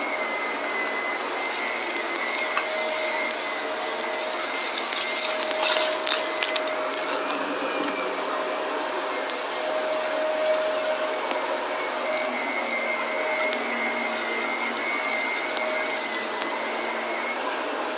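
Shark vacuum cleaner running with a steady motor hum and whine, its high hiss swelling in several stretches as it sucks up debris, with a run of crackles and ticks about five to seven seconds in.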